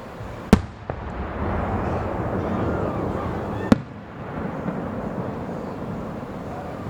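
Fireworks shells bursting: two sharp bangs about three seconds apart, with a smaller crack just after the first, and a rumbling wash of noise between and after them.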